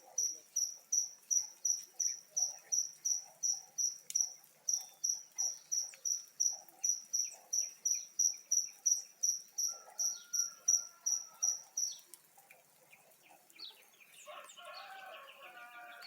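Cricket chirping steadily, a high chirp about three times a second, stopping about twelve seconds in. Near the end a bird calls several times.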